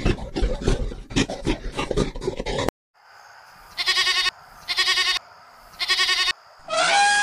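A brown bear growling in rapid rough pulses for about two and a half seconds. After a brief gap, a goat bleats three times over a faint steady hum. Near the end a louder, drawn-out animal call begins.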